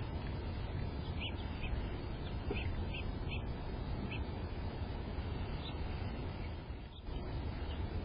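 Small birds giving short, high chirps, several in the first few seconds and one or two more later, over a steady low background rumble.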